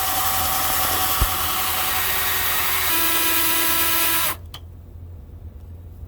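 Power drill boring a pilot hole through the thin steel wall panel of a metal building, running steadily at high speed. About three seconds in the tone shifts lower with a clear whine, and the drill stops suddenly a little past four seconds.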